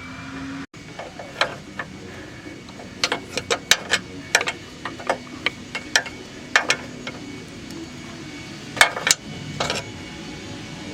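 Hammer and pry bar on the steel front control arm of a 2009 Toyota Corolla, working the stuck arm loose: a string of sharp metal knocks at an uneven pace, with the loudest pair near the end.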